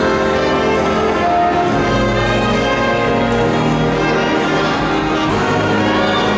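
Orchestral music led by brass, playing held chords that change every second or so.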